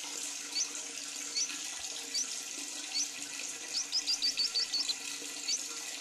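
Lovebird chirping: short high upward-sliding chirps about once a second, then a quick run of about seven near the middle, over a steady hiss of running water.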